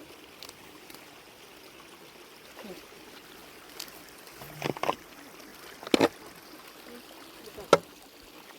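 Water trickling steadily, with a few sharp knocks: a quick double knock just under five seconds in, then single knocks about six and nearly eight seconds in.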